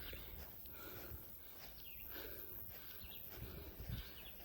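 Faint outdoor ambience: short bird chirps repeating every second or so over a steady low rumble, with a few soft low thumps near the end.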